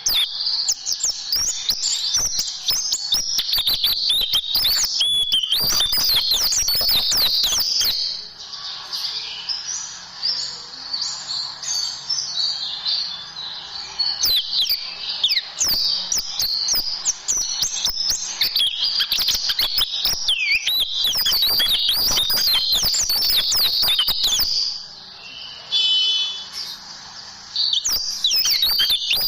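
White-eye (pleci) singing a long, fast stream of high twittering chirps and trills, with a short lull near the end before it resumes.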